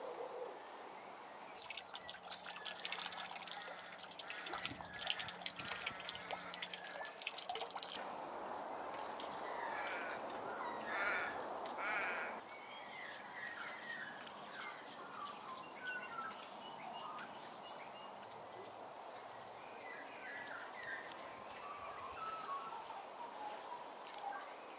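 Birds calling over outdoor ambience: a dense run of rapid clicks for the first several seconds, then scattered short chirps and warbling notes, with a few high trills near the end.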